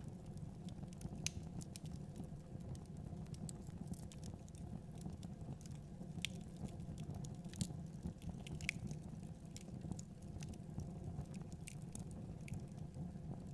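Fireplace fire crackling: irregular sharp snaps over a steady low rumble of burning.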